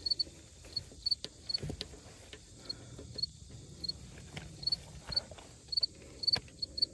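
Insects chirping in short, high-pitched pulses, in small groups, with irregular light clicks and taps from handling around the tractor and grease gun.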